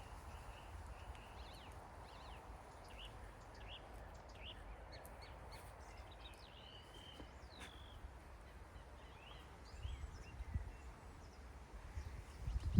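Birds chirping and calling outdoors in short, scattered notes over a steady low rumble, with a few low bumps about ten seconds in.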